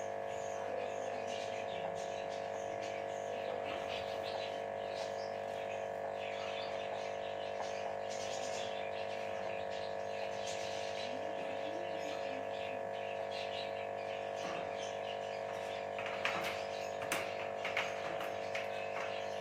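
Pet parrot giving short scattered chirps and calls, busier near the end, over a steady background hum.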